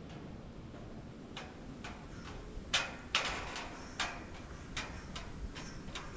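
Footsteps of a hiker walking downhill on a wet forest track: uneven steps, roughly one every half second or so, the loudest a little under three seconds in.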